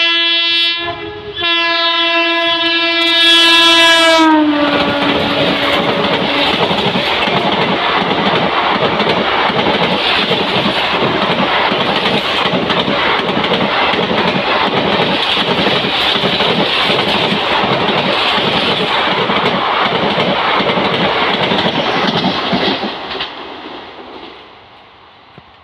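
Indian Railways WAP-4 electric locomotive's horn sounded in two blasts, a short one and then a longer one that drops in pitch as the locomotive passes. Then a long rake of ICF coaches goes by at speed, its wheels clattering over the rail joints in a steady rhythm, fading away near the end.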